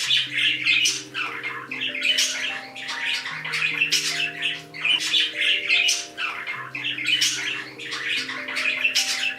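Pet parrots squawking and chattering in quick, repeated calls, over background music of held chords and a slow bass line.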